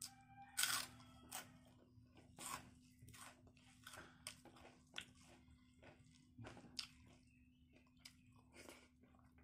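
A person chewing and biting into food eaten by hand from a rice plate, with irregular crunchy, crackling mouth sounds; the loudest bite comes about half a second in.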